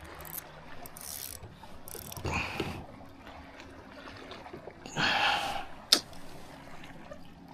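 Fishing reel being worked by hand, with ratchet-like clicking and scraping handling noises and one sharp click near six seconds.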